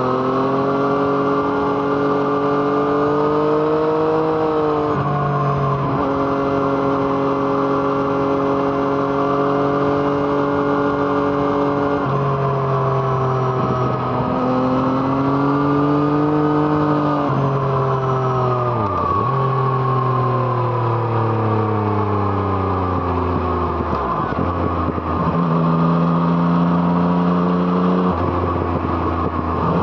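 Yamaha MT-09's 847 cc three-cylinder engine through an Arrow Thunder aftermarket exhaust, heard from on board while riding. The pitch climbs and drops back at several gear changes, with two long falling stretches as the bike slows on engine braking, and rises again toward the end.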